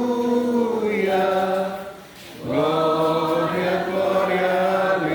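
A group of voices singing a hymn in slow, long-held notes: two sung phrases with a short break about two seconds in.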